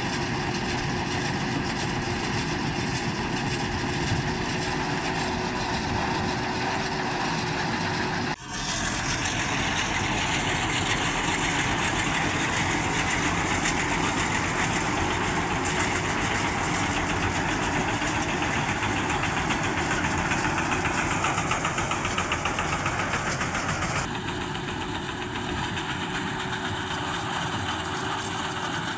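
Tractor engine running steadily while working a paddy-straw collecting machine. The sound breaks off sharply about eight seconds in and changes again near the end, as between different shots of the same work.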